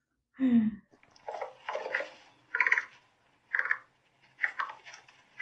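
A person's voice: a short falling voiced sound about half a second in, then breathy vocal bursts, roughly one a second, without words.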